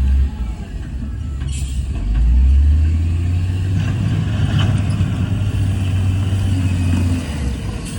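Heavy diesel earthmoving machinery running under load, its low engine rumble swelling about two seconds in and easing near the end. A short hiss is heard about one and a half seconds in.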